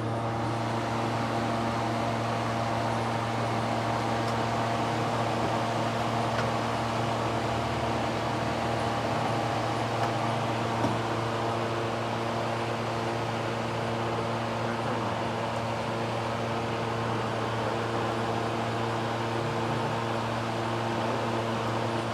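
Steady machine hum with a low drone and several steady overtones, unchanging throughout, with a couple of faint clicks around the middle.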